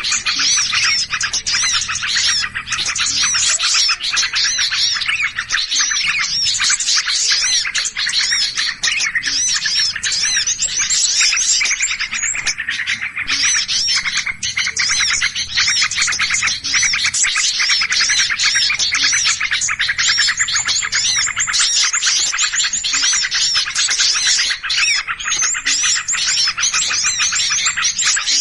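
A dense chorus of small birds chattering and chirping in agitation, a bird-lure recording of alarmed small birds. Rapid, overlapping high chirps run without a break.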